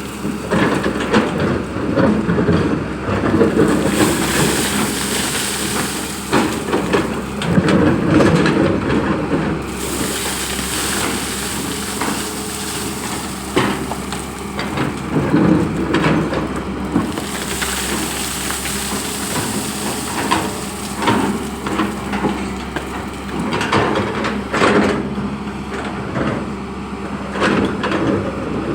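Long-boom excavator's engine running steadily while the bucket digs into soil, with repeated bouts of crunching and scraping as earth is scooped.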